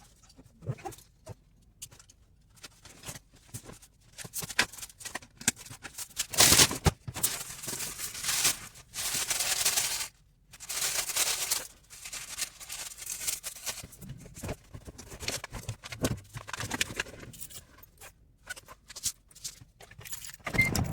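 Handling noises as gear is packed up: scattered clicks and knocks, with a few second-long bursts of rustling like fabric or bags being moved or stuffed, the loudest between about six and twelve seconds in.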